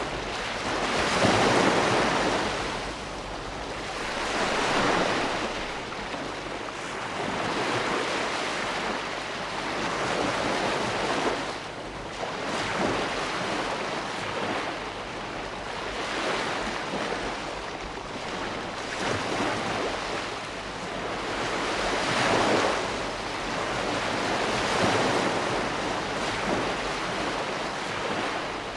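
Ocean waves breaking and washing on a shore, a continuous hiss of surf that swells and eases every few seconds.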